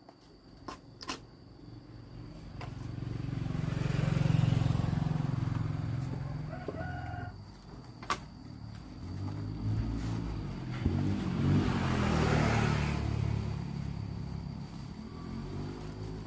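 Two motor vehicles pass one after the other, the engine sound rising and fading away each time; a rooster crows briefly between them.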